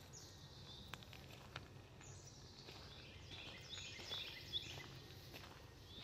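Faint birdsong from woodland birds: high, falling calls, several overlapping in the middle, over a low steady background hum, with a few light footstep ticks on a dirt trail.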